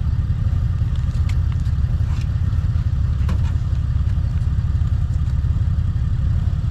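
A vehicle engine idling steadily with a deep low rumble, and a few faint light clicks over it.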